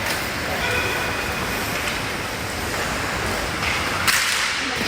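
Steady rink noise of a hockey game in play, with a sharp knock about four seconds in, like a stick or puck striking.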